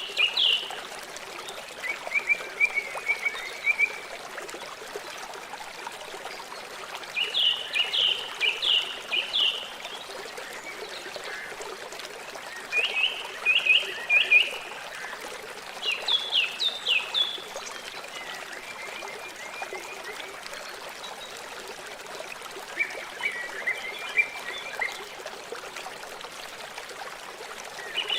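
River water running steadily. Over it, an animal calls again and again in short phrases of quick, high, falling notes, one phrase every three to six seconds.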